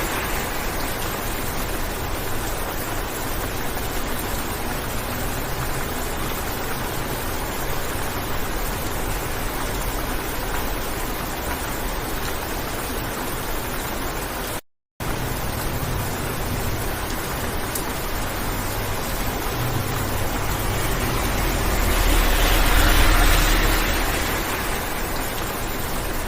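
Steady rain on a car windshield heard from inside the cabin, over a low cabin hum. The sound drops out to silence for a moment about halfway through, and near the end a swell of road noise rises and fades.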